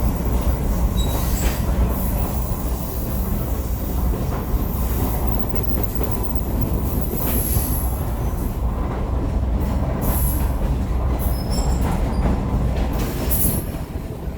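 Heritage passenger train rolling along the track, a steady low rumble from the cars with brief high-pitched wheel squeals several times.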